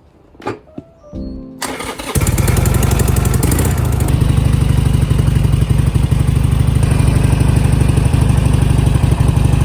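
Harley-Davidson Sportster 883 Iron's air-cooled V-twin being started: a brief crank about one and a half seconds in, catching half a second later and running loud and steady with a fast low pulse, then cutting off suddenly at the end.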